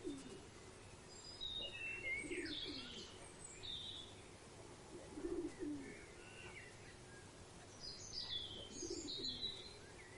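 Bird ambience: a dove cooing low, a short call about every three seconds, while small birds chirp and twitter with quick high notes between the coos.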